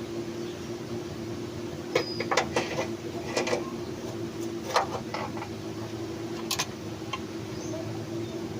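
Sharp metallic clicks and knocks of hand tools and parts during engine-mount work on a car, bunched between about two and seven seconds in, over a steady mechanical hum.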